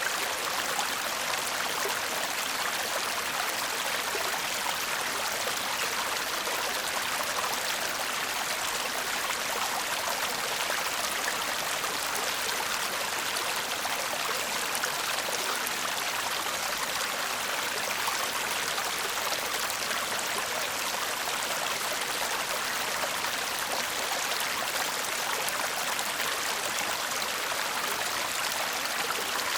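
A shallow stream babbling steadily over stones, an even rushing gurgle of flowing water with no pauses or changes.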